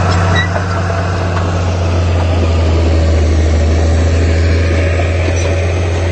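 Diesel engine of heavy earthmoving machinery, a bulldozer or dump truck, running steadily with a loud low drone.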